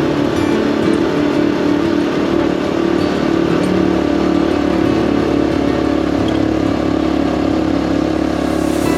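Honda CT125 Hunter Cub's single-cylinder four-stroke engine running steadily while riding at an even speed.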